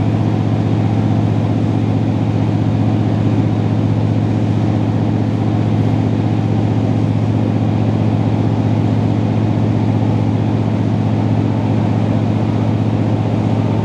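Diesel passenger train running steadily along the line, heard from inside the carriage: an unbroken low engine drone over a steady rumble from the wheels and track.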